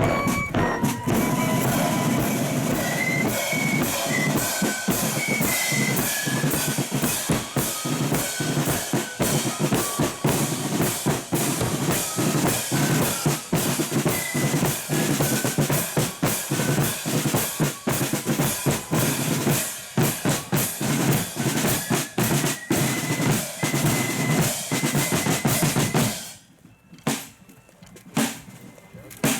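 A marching flute band's bass drum and snare drums playing a steady marching beat, with the flute tune loud only in the first second and faint after. The drumming stops suddenly about three seconds before the end.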